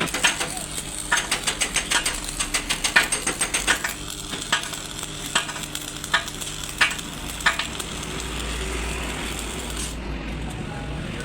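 A fast, even run of sharp metallic clicks, about five or six a second, for the first four seconds, then scattered single clicks over a steady low hum: hand tools working on metal truck parts.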